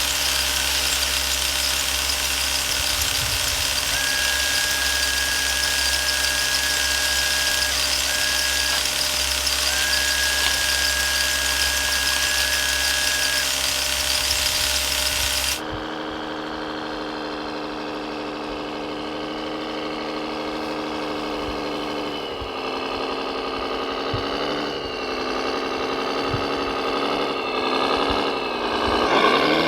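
Small electric motors and drive gears of RC model machines whining, with a thin high squeal for several seconds in the first half. Just past halfway the sound changes abruptly to a different motor whose pitch rises and falls, as if working under changing load.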